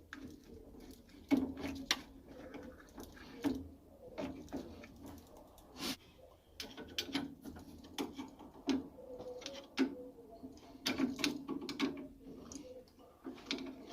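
Scattered light clicks and knocks at irregular intervals, a few of them sharper and louder.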